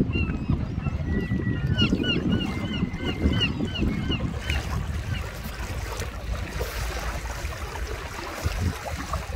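Low rumble of wind on the microphone and lapping water, with a bird giving short high calls about three a second, mixed with a longer held note, that stop about four seconds in.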